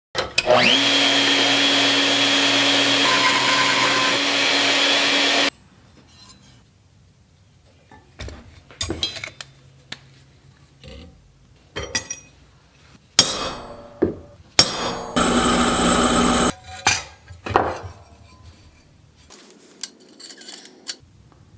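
Electric power tool motor spinning up and running steadily for about five seconds, then cutting off suddenly. Scattered knocks and clicks of metal parts being handled follow, with a second brief run of the tool.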